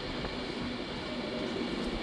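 Class 390 Pendolino electric train arriving at the platform, a steady rumble of wheels and traction equipment.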